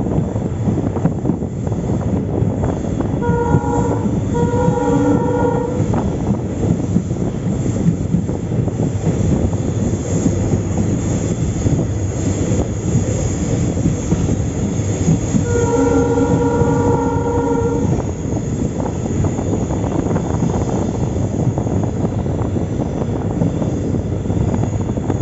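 Moving passenger train heard from inside a coach: steady rumble and wheel clatter on the rails. The diesel locomotive's horn sounds three times, two short blasts about three to five seconds in and a longer one of about two seconds around sixteen seconds in.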